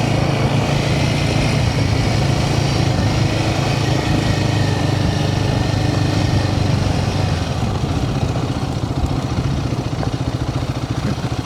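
Royal Enfield Himalayan 450's single-cylinder engine running while riding, with wind and road noise. About eight seconds in, the revs and wind noise drop and the engine's separate firing pulses become distinct as the bike slows.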